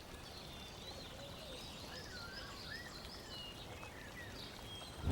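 Faint bird chirps and twitters, many short rising and falling calls, over a soft steady hiss.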